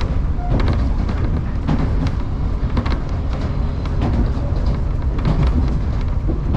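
Electric commuter train running on the line, heard from inside the car: a steady low rumble with irregular clicks and clatter from the wheels over the rails.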